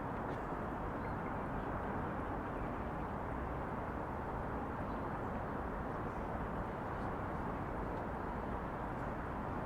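Steady outdoor city ambience: an even wash of distant traffic noise with no distinct events.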